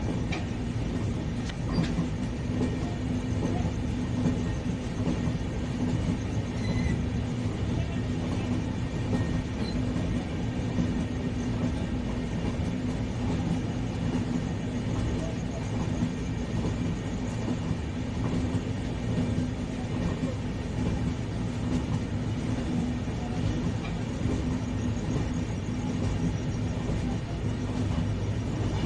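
Passenger train running along the rails: a steady rumble of wheels on track with a constant low hum over it, heard close by at a coach's side.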